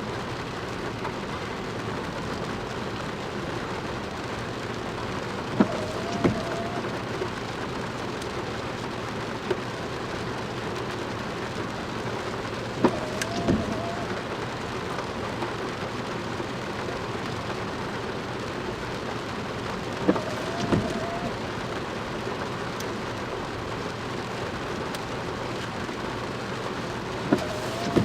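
Steady heavy rain falling. About every seven seconds a short wavering squeak and a couple of sharp clicks repeat, four times in all.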